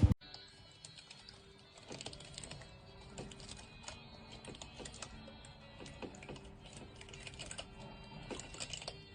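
Faint, irregular light clicks and taps, several a second, over quiet background music.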